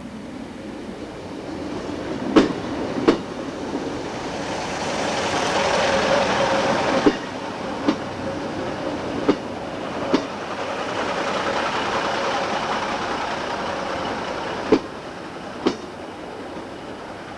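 A Class 156 Sprinter diesel multiple unit runs past along the platform. Its wheels clack over the rail joints in pairs of sharp clicks, and the running noise swells twice, then falls away near the end.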